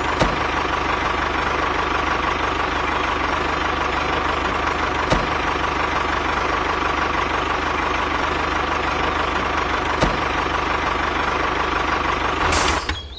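A steady mechanical running drone, with faint clicks about every five seconds; it stops shortly before the end.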